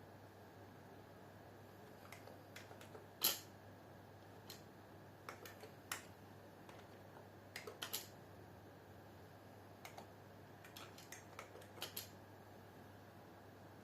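Typing on a computer keyboard: faint, irregular key clicks, one louder keystroke about three seconds in, over a steady low hum.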